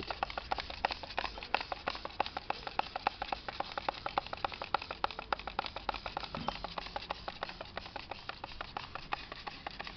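Fast, regular clicking or tapping strokes, several a second.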